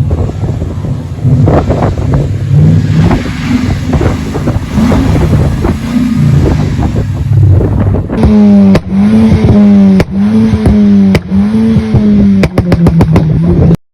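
A car engine being revved. For the first eight seconds the revs rise and fall. Then it is held at high revs with brief dips, broken by sharp cracks, and it cuts off suddenly.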